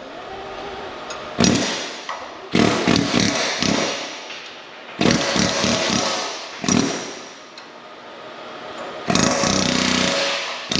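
Loud bursts of tool noise on steel during removal of excavator pin bushings. Each burst starts suddenly and fades over about a second, some carry rapid strokes at about four or five a second, and a longer steady burst runs near the end.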